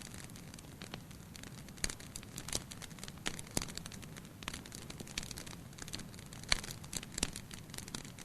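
Wood fire in a fireplace crackling: irregular sharp pops and snaps, a few louder ones standing out, over a low steady rumble of the flames.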